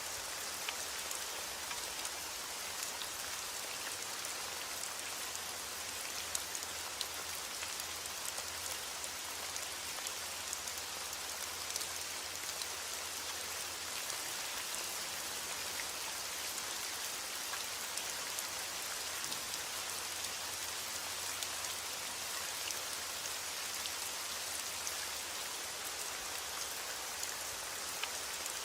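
Steady heavy rain falling, an even hiss dotted with the sharp ticks of individual drops striking a surface.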